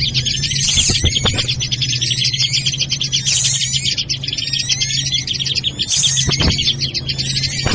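Bird-lure recording played back: a dense chorus of many overlapping chirps and twitters from agitated, noisy birds, with a short hiss repeating about every two and a half seconds and a steady low hum underneath.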